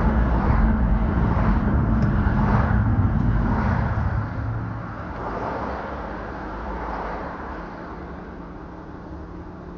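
A motor vehicle going by, loud at first and fading away from about four seconds in.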